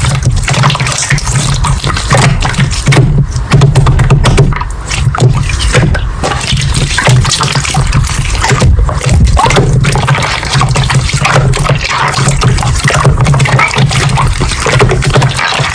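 Slime being squished and kneaded by hand, a steady stream of wet, sticky clicks and pops.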